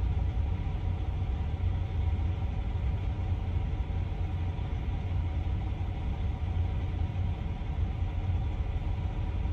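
Truck engine running, a steady low rumble with no change in pace.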